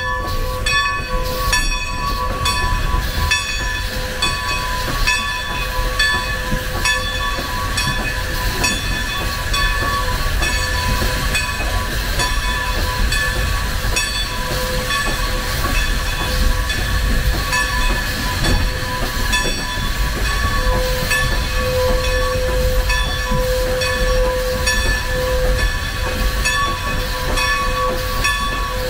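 Railroad cars rolling past on the adjacent track: a steady low rumble with wheels clicking over the rail joints and steady whining tones over it throughout.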